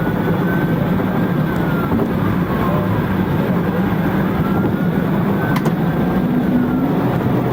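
Steady vehicle engine and road noise, with a police siren faintly wailing in slow rising and falling sweeps.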